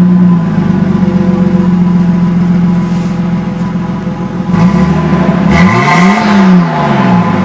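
Nissan Stagea's turbocharged RB25DET straight-six running at idle on cold, freshly changed oil just after starting. About five seconds in, it revs once, the pitch rising and falling back to idle.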